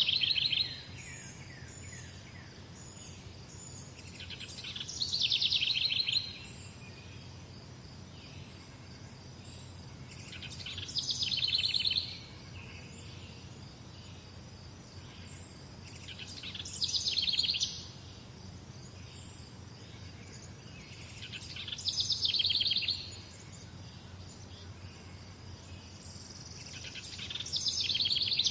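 A songbird repeating the same short, rapid trilled phrase, high-pitched and falling slightly, about every five to six seconds, five times in all, over a steady low background hum.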